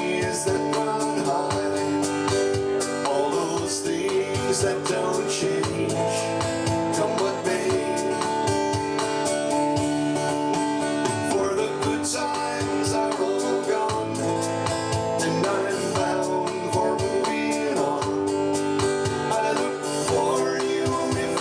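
A solo male singer with an acoustic guitar strummed under him, performing a country-folk ballad.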